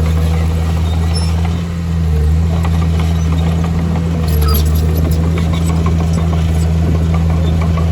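Heavy construction machine's diesel engine running steadily with a deep, low drone, briefly easing about a second and a half in and changing pitch slightly near four seconds, with faint scattered clicks over it.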